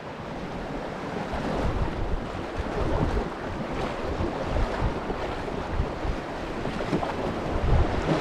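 River water rushing and splashing around a raft, with wind buffeting the microphone in uneven low gusts.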